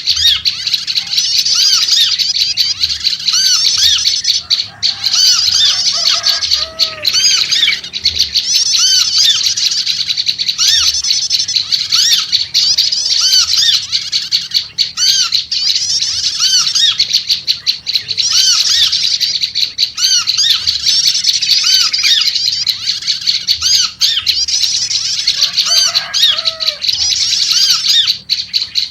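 Prenjak lumut (prinia) chattering noisily in a dense, rapid, unbroken stream of high scolding notes. Lower, bubbly notes from a second bird come in about six seconds in and again near the end.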